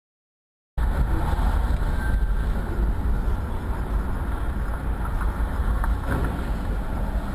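Steady low rumble of a moving car's road and engine noise, starting abruptly about a second in.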